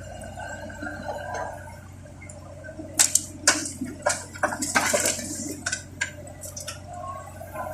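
A steady low hum, then a run of sharp knocks and clatters that begins about three seconds in and lasts a few seconds.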